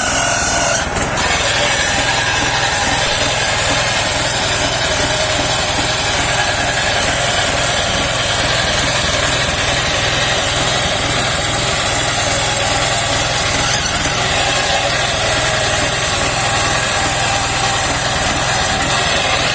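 Engine of a homemade mobile circular sawmill running steadily with its blade spinning, a loud even drone with a fast low pulsing and a high hiss over it.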